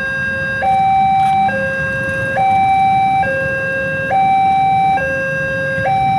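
Railway level-crossing warning siren sounding a steady hi-lo two-tone alarm, switching between a lower and a higher note about every second, as it does while the barrier is down for an approaching train.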